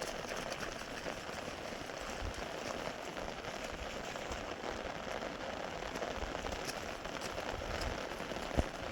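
Rain falling steadily, with scattered drop clicks and one sharper knock near the end.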